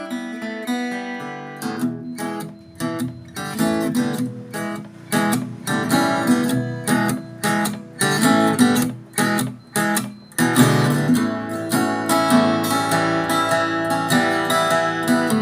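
Handmade Taylor-style acoustic guitar played as a sound check of its tone. It opens with a few ringing picked notes, then chords strummed in short rhythmic bursts with brief stops, settling into steady strumming about two-thirds of the way through.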